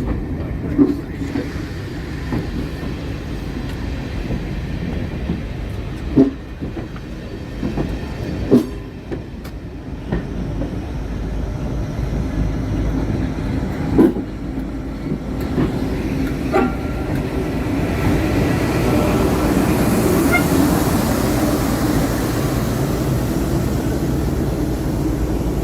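Diesel train running, its engine drone growing louder and brighter through the middle as it comes closer. A few sharp knocks stand out along the way.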